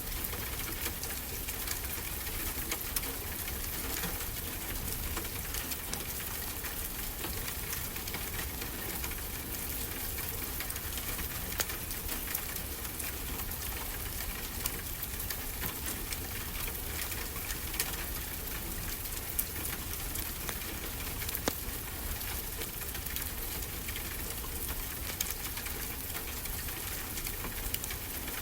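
Wood fire crackling in a fireplace, with scattered sharp pops, over a steady hiss of ocean surf.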